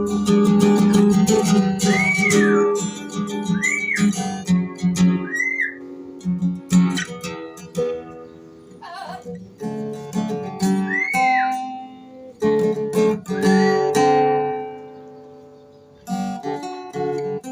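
Acoustic guitar music, strummed chords, with about five short whistles that each rise and fall in pitch, spread through the passage.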